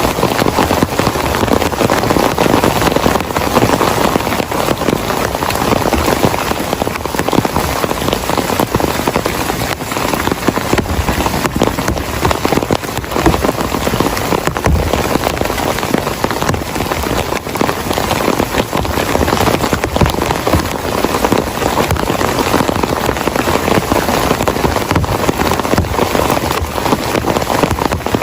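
Heavy rain falling steadily, a dense hiss filled with countless individual drop hits.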